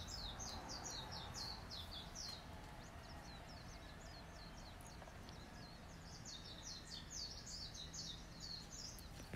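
Birds chirping in rapid runs of short, high, falling chirps, dense for the first couple of seconds, sparse in the middle, and busy again over the last few seconds, over a faint steady low hum.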